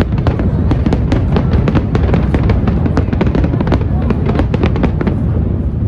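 Aerial fireworks going off in a dense run of rapid bangs and crackles over a continuous low rumble.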